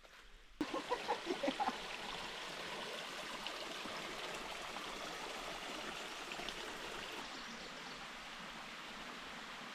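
Creek water running steadily over rocks. A few short pitched sounds come about a second in.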